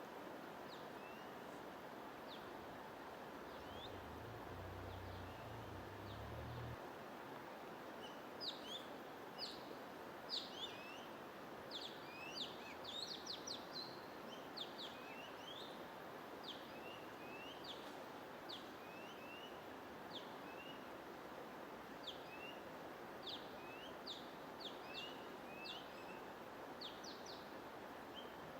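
Steady white-noise hiss under many small birds' short, high chirps. The chirps are sparse at first and come thick and fast from about a third of the way in. A brief low hum sounds a few seconds in.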